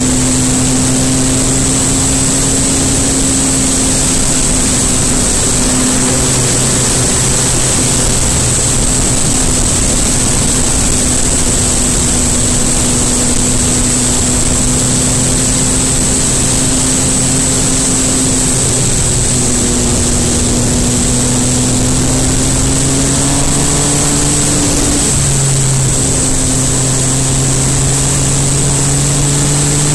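MV Agusta Brutale 800RR's three-cylinder engine running at a steady cruising pitch under way, easing off and picking up again a little near the end, over a constant hiss of wind noise and a thin high whistle.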